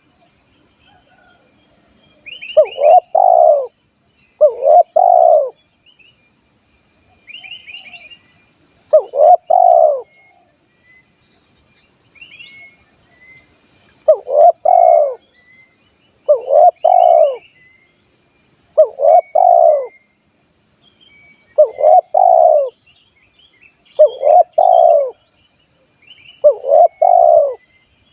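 Spotted dove (tekukur) cooing, a repeated short phrase of low coos given nine times, mostly every two to three seconds with a longer gap early on. A steady high insect drone and faint chirps of small birds run underneath.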